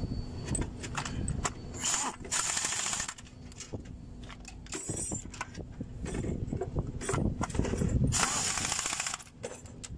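Hand tools clicking and clinking on metal as the engine's top cover is fitted and fastened, with two short bursts of hiss, one about two seconds in and one near the end.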